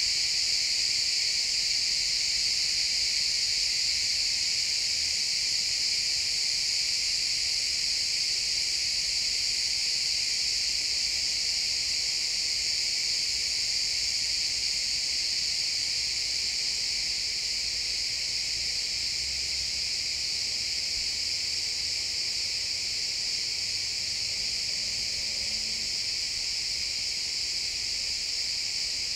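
A dense chorus of crickets chirping steadily, a continuous high-pitched trill with no pauses.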